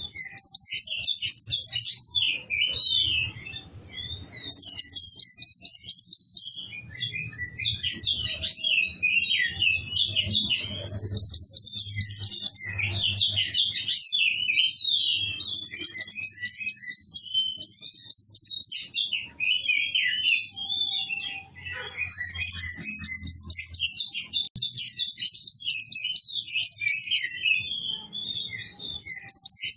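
Kowul songbird singing in full voice: a long, continuous song of rapid high trills, repeated every few seconds, with busy chattering and twittering notes in between. A faint low rumble runs underneath.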